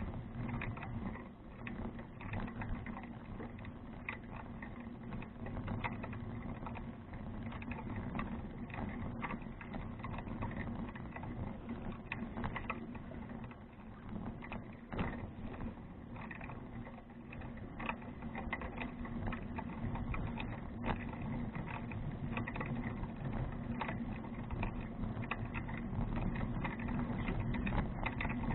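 A bicycle rolling along, heard through an action camera's microphone: a steady low rumble of tyres and wind with dense small rattling clicks throughout.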